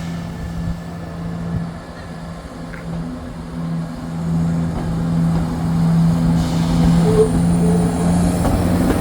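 Diesel train engine running with a steady low drone, slowly growing louder toward the end.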